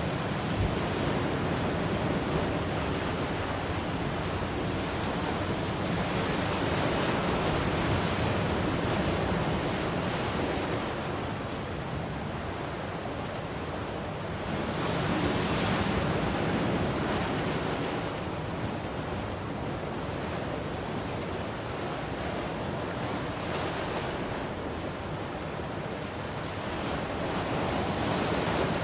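Ocean surf: waves breaking and washing ashore, a continuous rush that swells and eases every several seconds, with some wind on the microphone.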